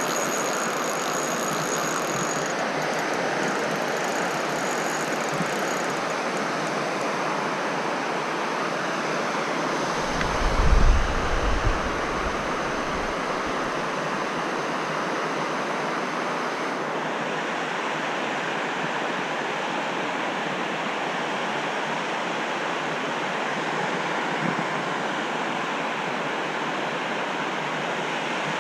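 Steady rushing of stream water, with a brief low buffet of wind on the microphone about ten seconds in.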